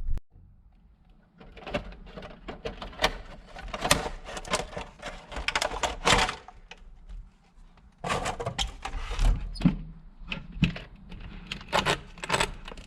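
Irregular clicks, knocks and clatter of hand tools and the plastic and metal parts of an RC monster truck being taken apart.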